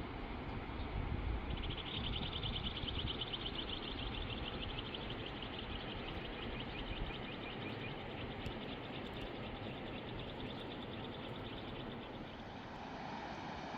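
Steady rushing of a fast river. From about a second and a half in until about ten seconds, a high, rapid trill of many pulses a second sits over it and slowly fades.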